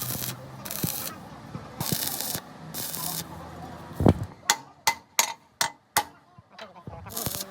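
Metalwork on a truck: four short hissing bursts, then a heavy thud about four seconds in and a quick run of sharp hammer strikes on metal, a few per second.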